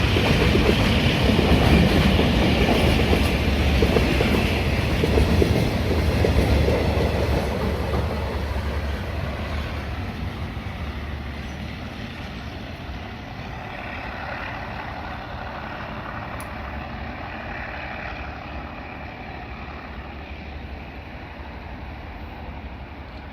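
Freight train passing on the rails, its wagons' wheels rumbling and clacking, the sound fading steadily over about ten seconds as it draws away.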